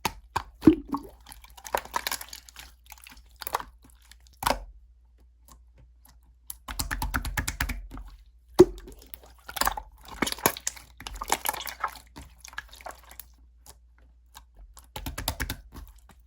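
Clear slime being handled, making irregular sticky clicks and pops, with two stretches of rapid crackling pops, about a third of the way in and near the end.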